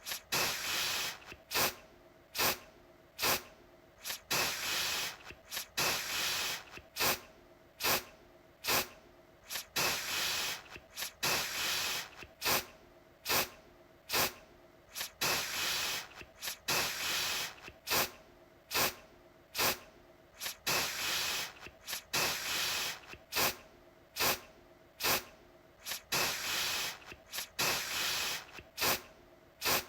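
Aerosol deodorant can spraying in repeated bursts of hiss, about one or two a second, mixing brief puffs with longer sprays of under a second each.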